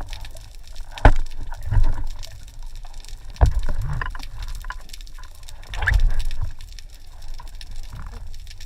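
Underwater recording through a camera's waterproof housing: a steady low rumble of moving water, with several dull knocks and a swish, the loudest about a second in.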